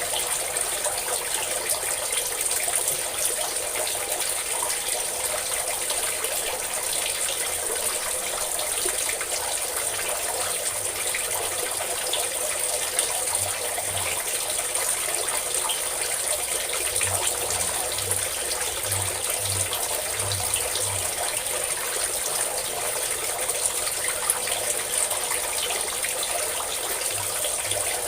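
A stream of water pouring and splashing in a steady, unbroken rush.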